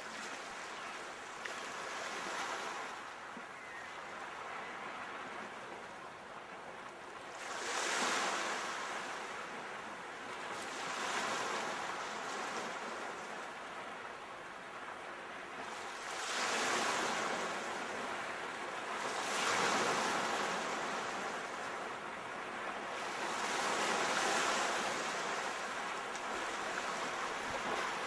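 Ocean waves breaking and washing up on a shore, a steady surf that swells every few seconds as each wave comes in and ebbs away.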